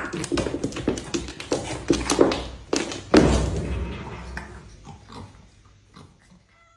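Cats fighting: a jumble of scuffling and sharp knocks with animal noise, the loudest burst about three seconds in, then dying away over the last two seconds.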